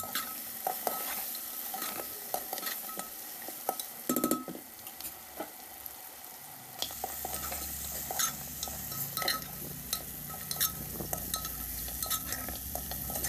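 Mutton frying and sizzling in oil in an aluminium pot while a steel ladle stirs it, scraping and knocking against the pot's sides and bottom, with a louder run of knocks about four seconds in. The stirring is done every few seconds to keep the meat from sticking and burning on the bottom.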